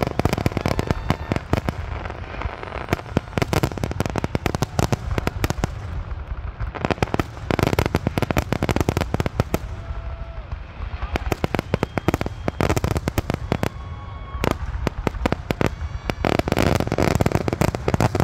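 Fireworks grand-finale barrage: a rapid, dense string of aerial shell bursts and crackling. It comes in waves, thinning briefly twice before building again.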